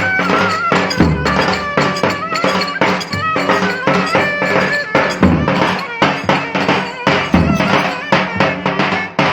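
Live band playing Turkish folk dance music: a fast, steady drum beat under a wavering, ornamented melody line.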